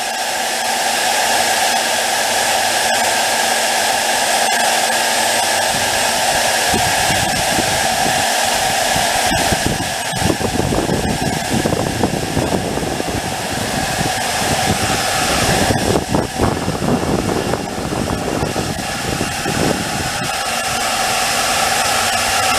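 Electric startup blower on a small charcoal gasifier running steadily with a loud whir, pulling air through the charcoal bed while the unit warms up to make gas. From about seven seconds in until shortly before the end, an uneven low rumble comes and goes over it.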